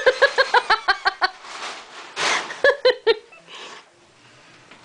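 A person laughing hard: two runs of quick, high-pitched ha-ha-ha bursts with wheezy breaths between them, fading to breathing near the end.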